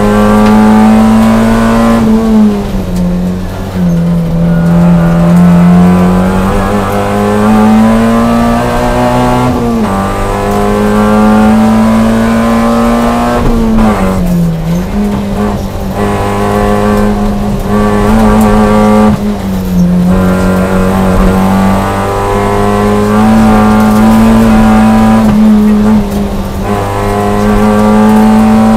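Toyota Yaris rally car's engine, heard from inside the cabin, driven hard: its pitch climbs under full throttle and drops sharply at each gear change or lift-off, about every five seconds.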